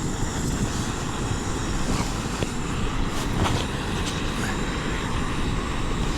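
Strong wind buffeting the microphone over the steady rush of a Soto Windmaster gas canister stove burning under a kettle in the open wind.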